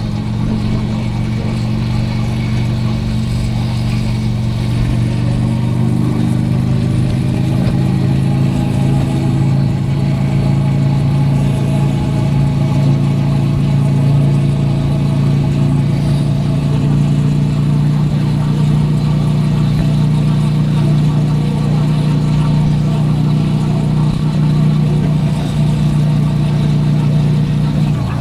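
Motorcycle engine running steadily under way, with wind and road noise, recorded from a helmet-mounted camera. The engine note climbs a little over the first several seconds, holds steady, and falls away right at the end as the throttle eases off.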